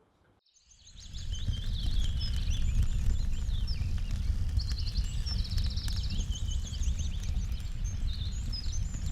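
Several birds chirping, with a couple of fast trills, over a steady low rumbling noise; the sound fades in from near silence about a second in.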